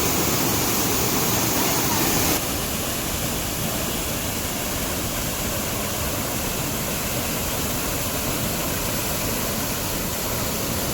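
Waterfall rushing: a steady roar of falling water. It drops a little in level about two seconds in, then runs on evenly.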